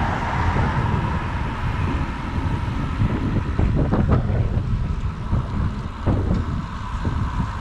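Wind buffeting the microphone of a moving bicycle, over a steady hum of city traffic, with a few short clicks partway through.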